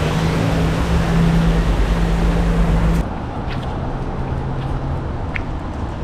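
A motor running with a steady low hum and rumble. About three seconds in it cuts off abruptly to a quieter background with a few faint, short high chirps.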